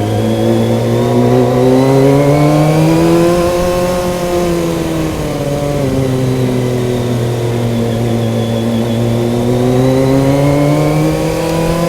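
Motorcycle engine running under load, its pitch rising for the first few seconds, dropping back about five seconds in, then climbing again near the end.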